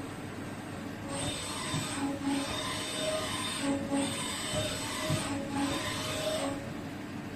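CNC vertical machining center cutting metal: the tool screeches against the workpiece in three passes of about a second and a half each, over the steady hum of the machine running.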